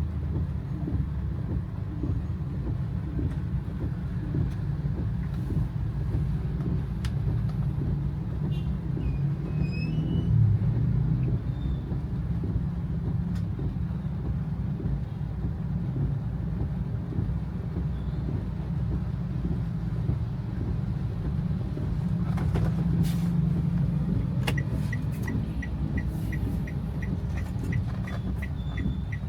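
Steady low rumble of a car's engine and tyres on a wet road, heard from inside the car. About five seconds before the end, a regular light ticking starts at about three ticks a second.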